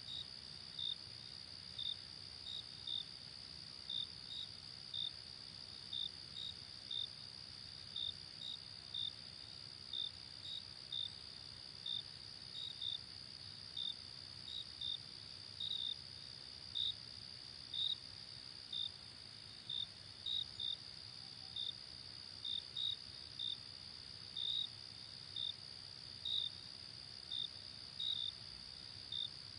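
Night insects: a steady high-pitched insect trill, with crickets chirping in short, irregularly spaced chirps about once or twice a second.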